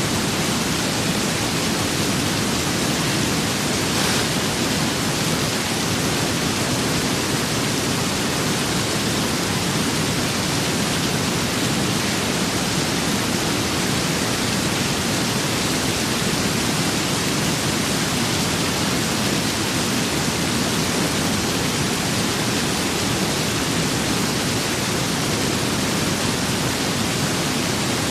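Steady rain with wind, an even, unbroken rushing hiss.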